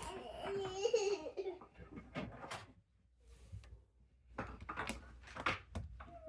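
A young child's high voice vocalizing without clear words, giggling or humming, for the first second and a half, then scattered clicks and short clatters of plastic Lego pieces being handled.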